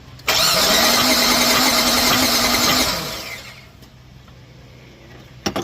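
The 4.3 L V6 of a 1997 GMC Sierra is cranked over by its starter for about two and a half seconds with a steady whine, without catching, then winds down. This is a hard-start condition, which the owner puts down to weak spark and a possibly flooded cylinder. There is a short click near the end.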